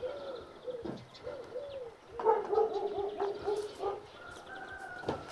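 Birds calling in rural ambience: a run of short low cooing notes, then a louder run of quick repeated notes about two seconds in.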